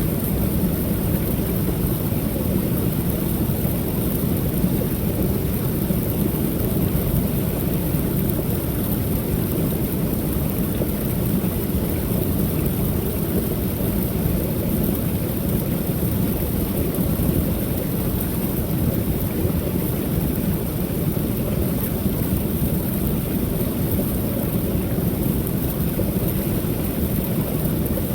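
Creek waterfall: water pouring steadily over the falls in a deep, unbroken rush.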